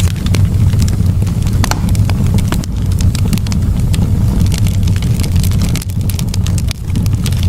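Campfire burning: frequent irregular crackles and pops of burning wood over a steady low rumble.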